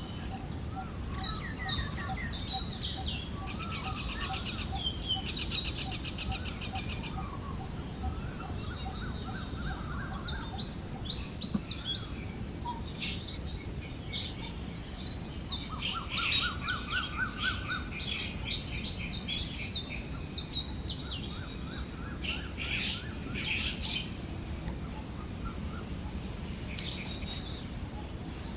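Several forest birds chirping and calling in turn, with a few rapid trills, over a steady high insect drone and a low rumble of breeze.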